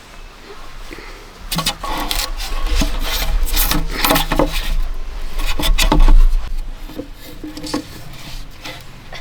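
Repeated irregular scraping strokes on wood, quiet for the first second or so, then coming in uneven bursts that are loudest about six seconds in.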